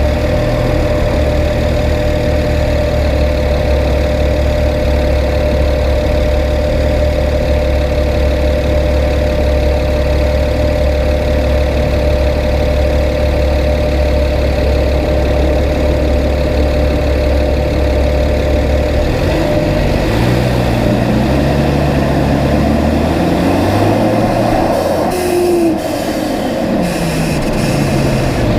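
BMW 335is N54 twin-turbo inline-six, fitted with aftermarket turbos, running at a steady speed. About two-thirds of the way through, its pitch rises in steps, then falls near the end.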